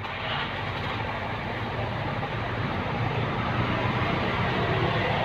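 Steady rushing background noise with no distinct source and no music or speech.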